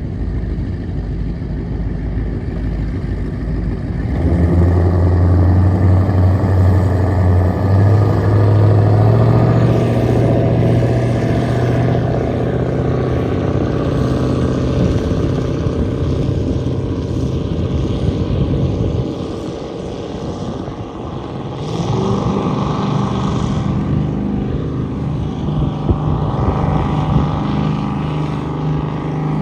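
Cigarette-style offshore powerboat's engines running with a deep, steady engine note. It gets much louder about four seconds in and steps up in pitch a few seconds later, then fades briefly past the middle before coming back.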